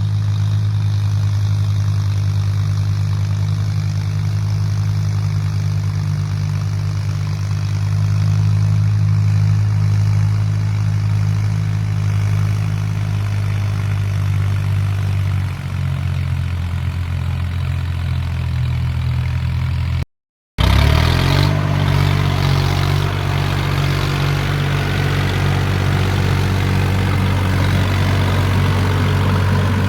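Mahindra 265 tractor's diesel engine running steadily. About 20 s in, the sound breaks off for a moment; the engine then picks up with a short rise in pitch and runs on, noisier in the highs.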